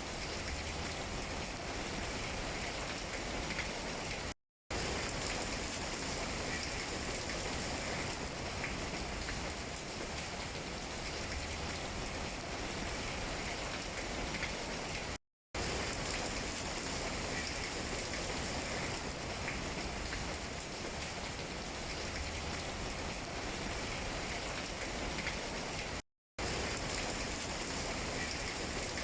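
Steady rain falling on tree leaves, an even patter with no break in intensity. The sound cuts out to silence for a split second three times, about every eleven seconds.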